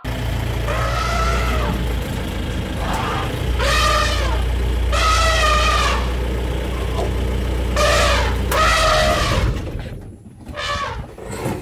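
Asian elephants trumpeting, about five long calls of roughly a second each, over a steady low rumble that stops near the end.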